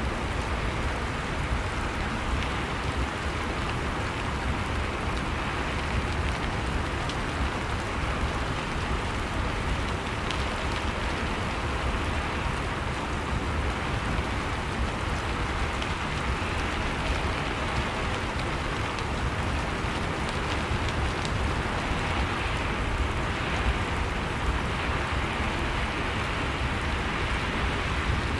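Steady rain falling, a dense even hiss with fine pattering of drops and a low rumble underneath.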